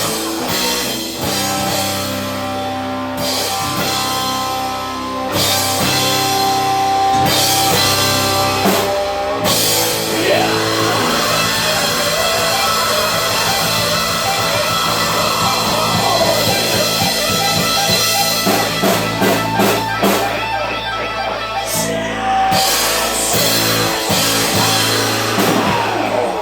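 Live rock band playing, with electric guitar over a drum kit.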